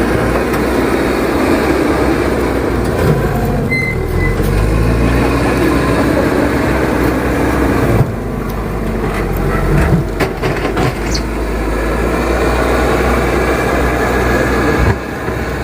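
A motor vehicle's engine running steadily, with a low hum throughout.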